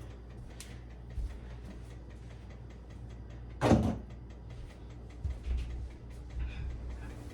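A few light knocks and one louder clunk, about three and a half seconds in, as things are picked up and handled during refrigerator cleaning, over a steady low hum.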